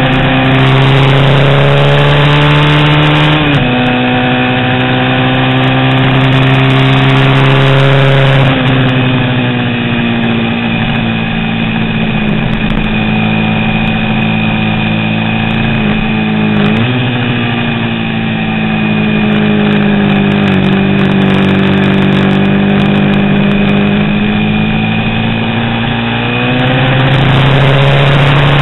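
A 350-class vintage racing motorcycle engine running hard at race speed. Its note drops sharply twice in the first nine seconds, as on gear changes, then sags slowly and climbs again near the end.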